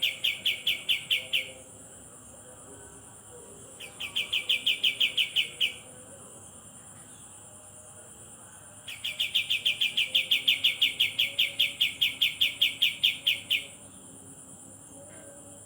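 A bird's fast, even trill, a rapid string of sharp chips given in three bouts, the last and longest lasting about four and a half seconds, over a steady high hiss.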